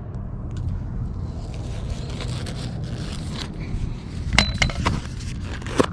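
Rustling and scraping handling noise as worms are taken out of a bait container, with scattered small clicks. There are two sharper clicks, one about four and a half seconds in and one just before the end, over a steady low rumble.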